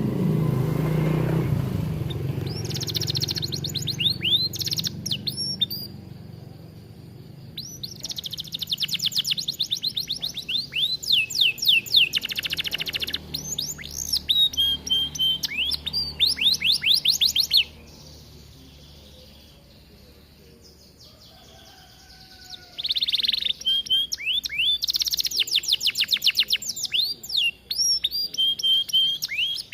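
Domestic canary singing in long, rapid trills of repeated downward-sweeping notes, with a pause of a few seconds past the middle before the song resumes. A low rumble runs under the first few seconds.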